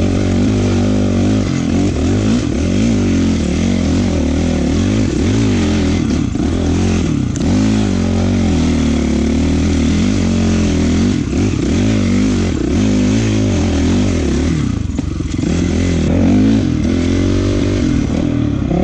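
Honda CRF450 dirt bike's single-cylinder four-stroke engine running hard under way, its pitch rising and falling again and again as the throttle is opened and closed.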